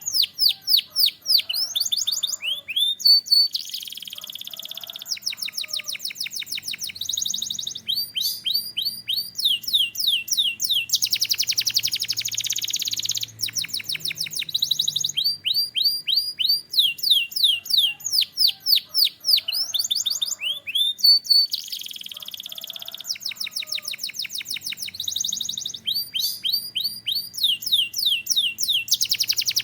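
Canary singing a continuous, high-pitched song of fast repeated phrases: runs of quick downward-sweeping notes alternating with buzzy rolls and rapid trills. The same sequence of phrases seems to start over about two-thirds of the way through.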